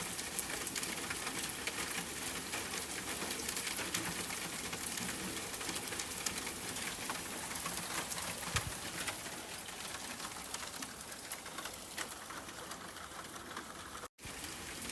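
Steady rain falling, with many individual drops striking close by. The sound cuts out for a moment near the end.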